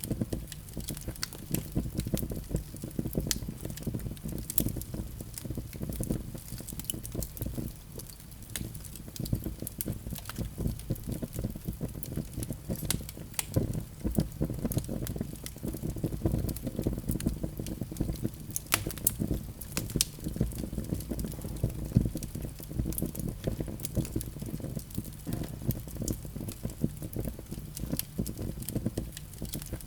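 Wood fire burning in a fireplace: a low steady rumble of flames with frequent sharp crackles and pops.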